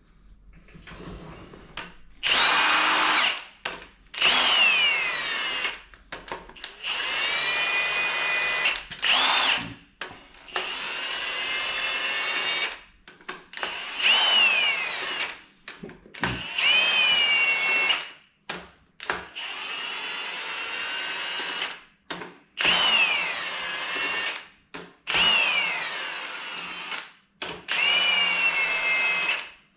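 Handheld power tool with a drill-type motor, triggered in about ten short runs of one to three seconds each; after most runs the whine falls in pitch as the motor spins down.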